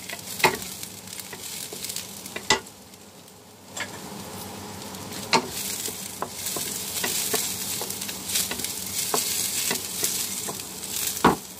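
Chopped garlic, ginger and onion sizzling in hot oil in a nonstick wok while a wooden spatula stirs them, with a few sharp knocks of the spatula against the pan. The sizzle dips briefly about three seconds in, then picks up again.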